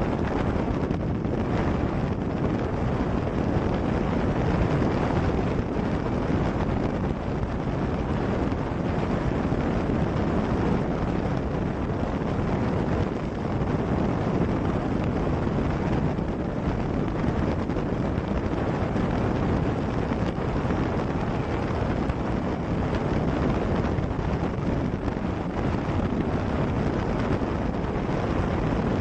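Steady wind rush on the microphone with the drone of a motorcycle ridden at high speed on a highway, running evenly without breaks.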